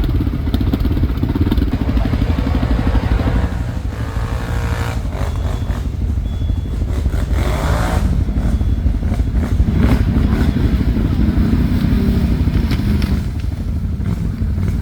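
ATV engine running under way, its pitch rising and falling a few times as the throttle changes, with a few knocks around the middle.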